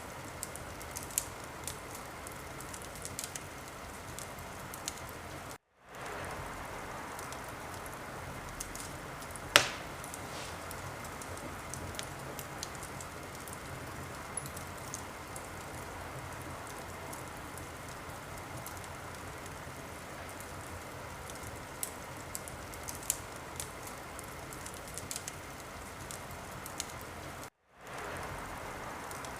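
Wood fire crackling in a fireplace: a steady hiss with scattered sharp snaps and one loud pop about nine seconds in. The sound cuts out to silence for a split second twice.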